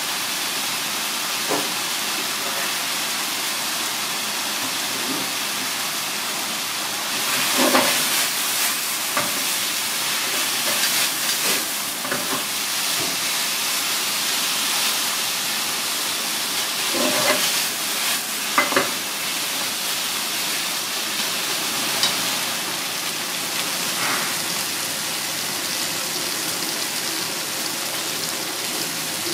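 Noodles, cuttlefish and vegetables sizzling steadily in a frying pan over a gas flame, with chopsticks knocking and scraping against the pan as the food is tossed, louder in two spells partway through.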